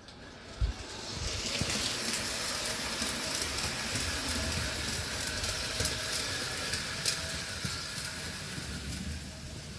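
An O-scale model train running on the layout track: a steady rolling rush with scattered clicks from wheels on the rails, swelling about a second in as it nears and easing a little near the end.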